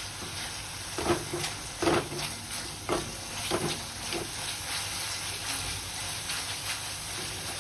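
Thick onion-tomato masala sizzling in oil in a metal kadai, stirred with a silicone spatula: a steady frying hiss with about five scraping strokes of the spatula in the first half. The masala is at the stage where its last water is cooking off and the oil is separating.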